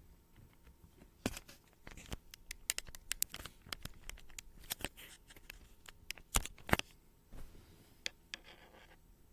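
Irregular run of sharp clicks and short scratching noises, like small objects being handled; the loudest clicks come about six and a half seconds in.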